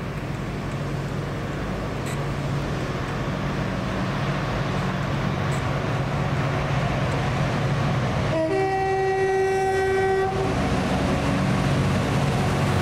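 Train approaching through the station, a low steady hum that grows louder throughout. A little past halfway it sounds its horn for about two seconds: a brief higher note dropping into a held lower one.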